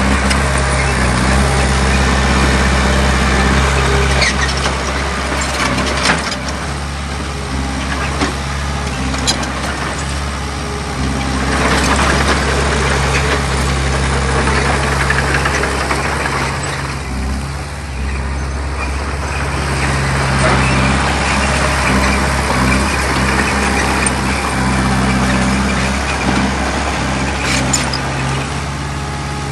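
Heavy diesel engine of earthmoving machinery running steadily under load, its pitch shifting a little, with a few sharp metallic knocks and clanks.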